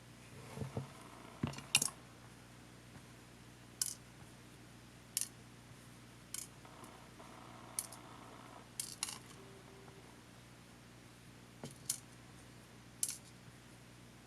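About a dozen scattered, sharp clicks and taps at uneven intervals, from small tools and plastic parts being handled while a Panasonic HA-WA10 camcorder is taken apart, over a faint steady hum.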